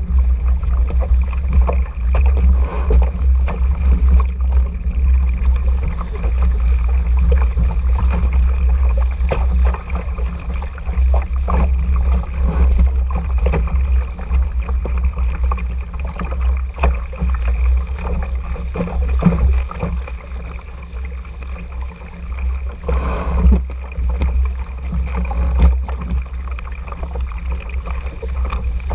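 Small RS Tera sailing dinghy under way: a steady low rumble of wind on the microphone over water rushing along the hull, with a few brief splashes or knocks.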